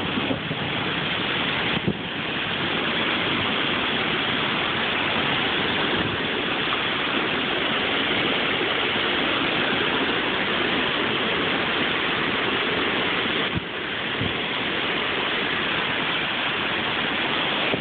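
Heavy rain driven by strong wind, a loud, steady rush of noise, with brief dips in level about two seconds in and again near fourteen seconds.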